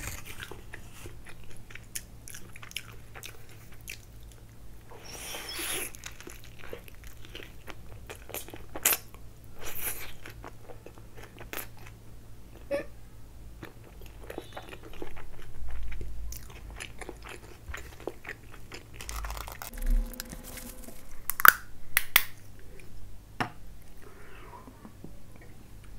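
Close-miked biting and chewing of a chicken tikka wrap with lettuce, in soft crunches. A brief rustle comes about five seconds in, and a few sharper clicks come later on.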